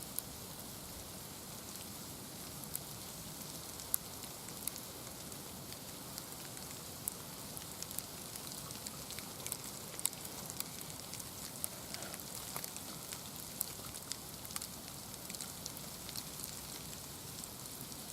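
Steady rain, with scattered sharp ticks of single drops landing.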